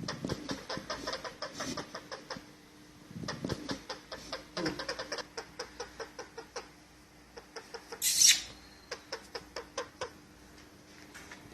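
Ringneck parrot chattering in runs of rapid short chirps and clicks, several a second, with one loud, sharp squawk about eight seconds in.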